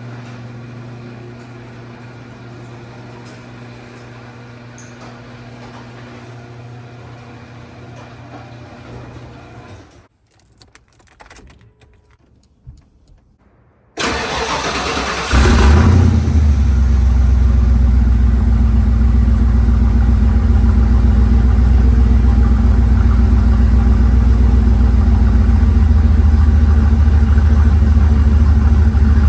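A vehicle engine cranks and starts about halfway through, then runs loudly and steadily. Before that there is a quieter steady low hum, broken by a few seconds of near quiet.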